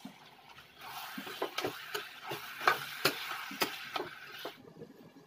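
Raw chicken pieces going into hot masala gravy in a steel kadai, sizzling and spitting. Sharp knocks come repeatedly as pieces hit the pan, and the sizzle stops suddenly near the end.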